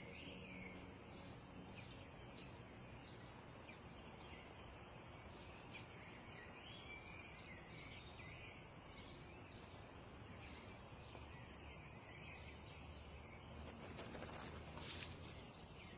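Faint outdoor garden ambience with small birds chirping and twittering on and off; a brief soft rustle near the end.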